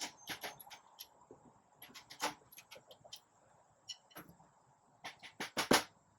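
Scattered light clicks and soft taps while a snare drum's head is being tensioned up, with a couple of slightly louder taps near the end.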